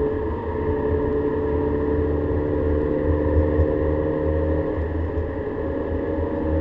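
Volkswagen Golf GTI engine accelerating in one gear, its note climbing slowly and steadily as the car runs down a straight, heard from inside the cabin over a heavy low rumble.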